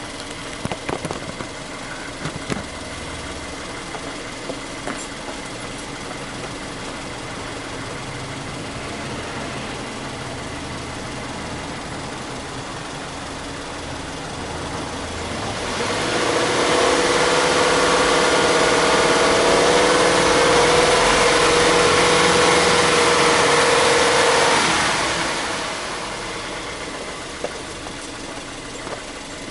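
Subaru Legacy B4 2.0GT DIT's turbocharged flat-four engine idling, then revved up about halfway through and held at a steady higher speed for about eight seconds before dropping back to idle.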